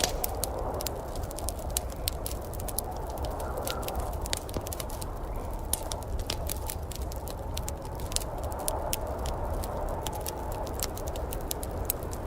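Wood fire crackling in a fireplace: many sharp, irregular pops and snaps over a steady low rumble and hiss.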